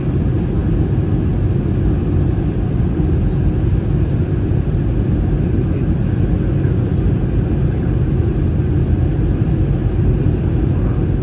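Steady low rumble of cabin noise inside an Airbus A319, from its CFM56 engines and the air around the fuselage, heard from a passenger seat.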